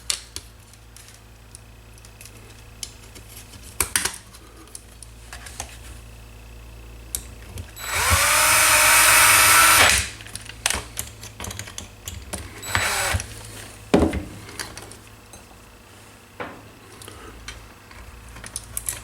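Small power screwdriver running for about two seconds midway, rising in pitch as it spins up, driving a landing gear screw into the helicopter's lower frame. Scattered small clicks and knocks of parts being handled come before and after it.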